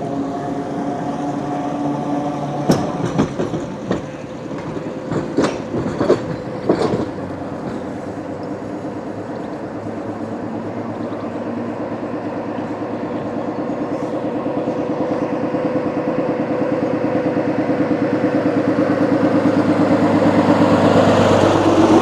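Rail vehicle running on track, with sharp clicks in the first few seconds, then a dense rattling that grows steadily louder as it approaches.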